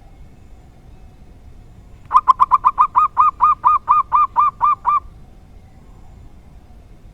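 Zebra dove (perkutut) calling: a run of about fifteen short, arched notes lasting about three seconds, starting about two seconds in, packed tightly at first and then steadying to about five a second, before stopping abruptly.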